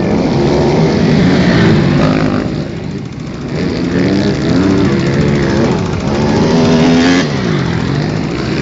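250cc grasstrack motorcycle engine revving, its pitch rising and falling several times, then dropping away near the end.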